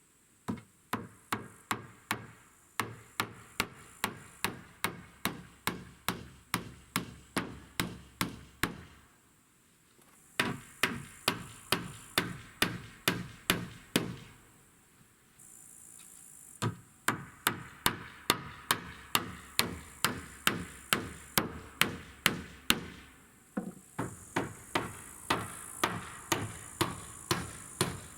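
Hammer driving nails into wood: fast, even blows about two or three a second, in four runs with short pauses between them.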